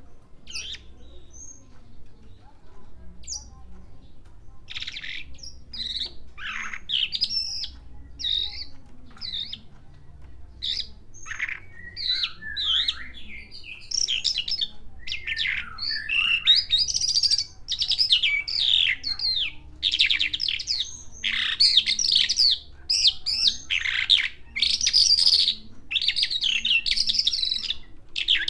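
Javan bushlark (branjangan) singing: short chirps and trills, sparse at first, becoming a faster, louder run of varied phrases from about halfway through.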